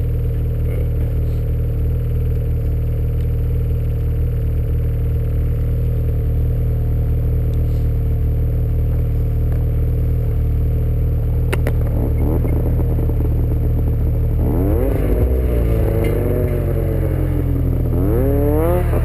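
Snowmobile engine running at a steady idle, then from about two-thirds of the way in revving up and down several times. There is a single sharp click shortly before the revving.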